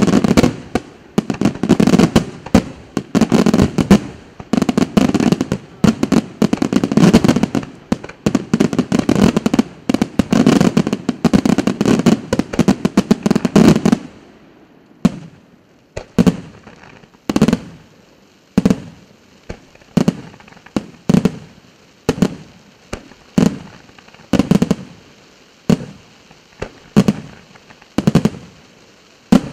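La Rosa aerial fireworks display: a dense barrage of shell bursts and crackling for the first half. About halfway through it gives way to separate bangs, roughly one or two a second.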